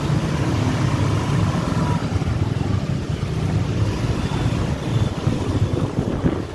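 Motorbike riding through city traffic: a steady low engine and road rumble, with wind buffeting the microphone.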